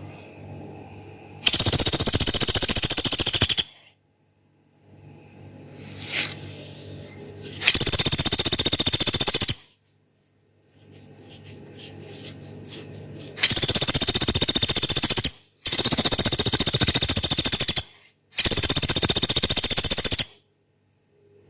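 Pelatuk beras, a small woodpecker, giving long harsh rattling calls: five fast, even rattles of about two seconds each, the last three close together.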